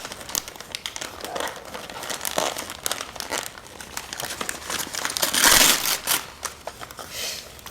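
Gift wrapping paper crinkling and rustling as a present is pulled open, with a louder stretch of rustling about five seconds in.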